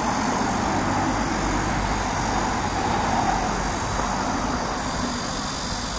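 Road traffic going past: a steady rumble and tyre hiss that swells a little in the first half and eases off toward the end.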